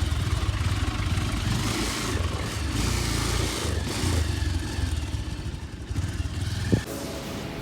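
Motorcycle engine running as the bike rides along, with a heavy rush of wind noise over it. Near the end there is a single sharp knock, after which the engine sound stops.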